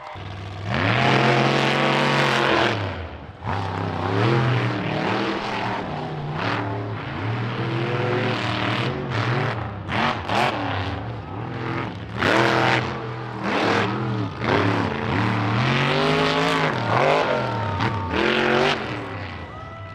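Monster truck engine revving hard, its pitch climbing and dropping again and again in repeated throttle bursts.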